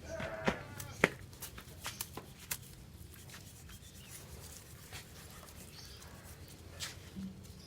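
Hand scrubbing and rubbing on motorcycle engine parts, with a few sharp clicks of parts or tools being handled, the loudest about a second in. A short animal call sounds about half a second in.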